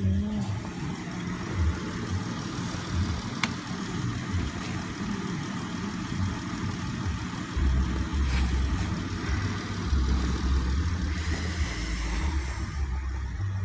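Car engine idling steadily as the donor car in a jump-start, boosting a battery that went flat in the freezing cold. A heavier low rumble comes in about halfway through.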